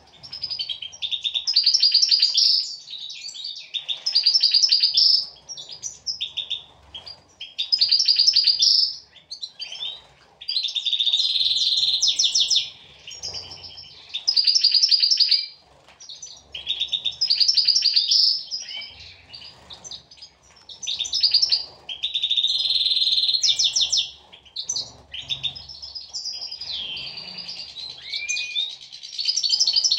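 European goldfinches singing: bursts of rapid, high twittering notes, coming again about every two seconds.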